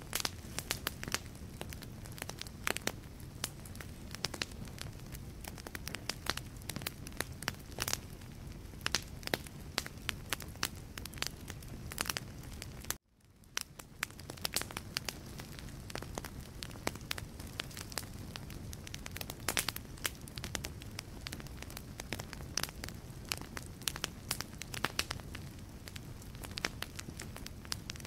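Wood fire crackling in a fireplace: dense, irregular snaps and pops over a steady low rumble of the burning logs. About halfway through, the sound drops out for a moment and fades back in.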